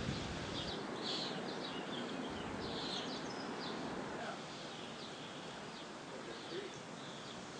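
Birds chirping over steady outdoor background noise: many short calls in the first few seconds, fewer later on.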